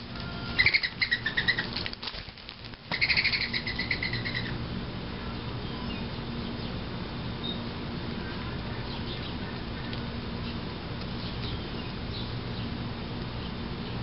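A small bird gives two rapid, chattering calls, each about a second long, in the first few seconds, then only faint scattered chirps, over a steady low hum.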